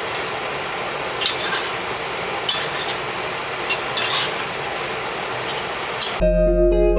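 Stir-frying in a pan: a steady sizzling hiss, with a utensil clinking and scraping against the pan a few times. Guitar music cuts in suddenly near the end.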